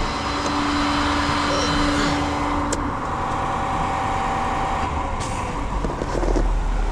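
Truck engine running at idle with a steady hum; a deeper low rumble comes in near the end.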